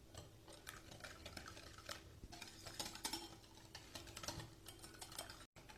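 Cake batter of eggs, sugar, oil and milk being whisked by hand in a bowl: soft, irregular clicking and scraping against the bowl.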